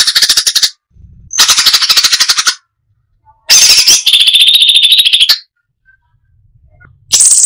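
Crested finchbill (cucak cungkok) singing in rapid-fire bursts of densely repeated high notes, each burst lasting one to two seconds with short pauses between; a fresh burst starts near the end.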